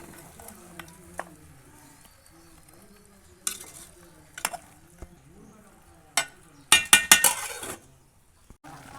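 A metal spoon stirring chicken curry in a cooking pot over a light sizzle, with sharp knocks against the pot every second or so. About seven seconds in there is a loud run of ringing clanks.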